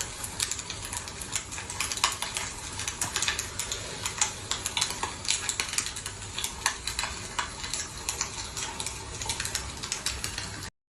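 Smart electric fireplace's crackling effect: many soft, irregular clicks and pops over a faint hiss, like burning logs.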